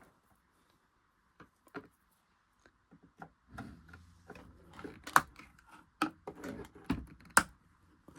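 Hard plastic and metal parts of a sewing machine being handled: scattered clicks and knocks, growing denser after a quiet start, with sharp knocks about five and seven seconds in.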